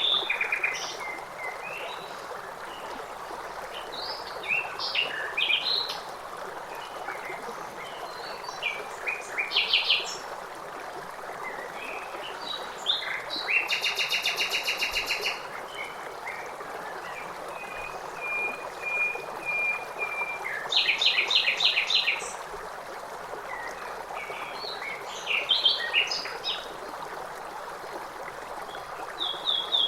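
Songbirds singing in short, repeated phrases every few seconds, with a fast trill about halfway through, over the steady rush of a flowing stream.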